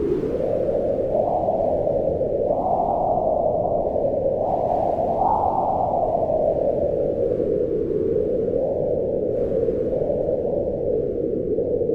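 Wind blowing in gusts: a steady low rush that swells and eases in pitch every few seconds.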